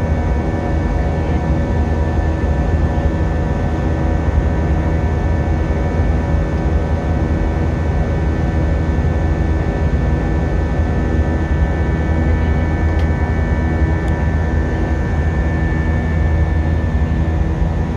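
Steady cabin noise inside an Airbus A320-233 with IAE V2500 engines after takeoff: a deep rumble of airflow and engines with a few steady whining tones from the engines, unchanging throughout.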